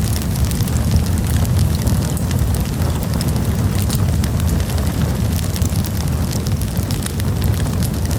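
Wood campfire burning: a steady low rush of flame with many small, sharp crackles and pops scattered throughout.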